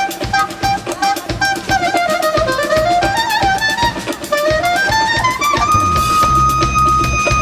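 Instrumental passage of a live band: a lead melody instrument plays an ornamented line that dips and then climbs, settling on a long held high note, over regular drum hits, with bass entering near the end.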